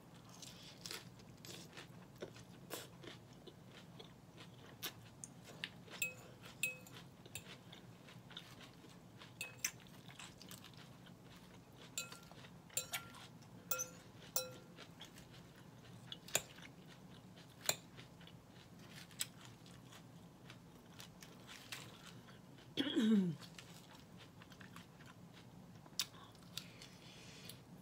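Close-up chewing and crunching of romaine Caesar salad, with frequent sharp clicks and occasional short rings of a metal fork against a glass bowl. About 23 seconds in, a brief falling hum from the eater.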